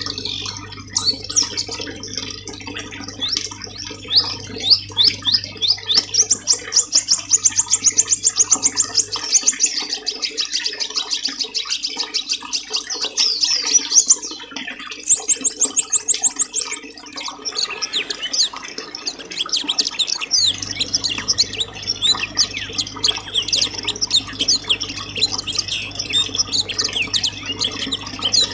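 Small songbirds chirping and singing fast, overlapping trills and twitters, with a very high, rapid trill about halfway through. This is a 'masteran' birdsong recording, the kind played to caged songbirds to teach them song. A faint low hum underneath drops out for a stretch in the middle.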